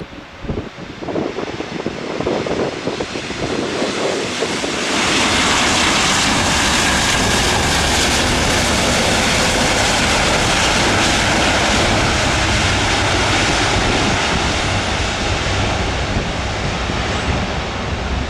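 Jet engines of an Airbus A330 landing. The engine noise builds unevenly over the first few seconds, jumps sharply about five seconds in, and then stays loud and steady.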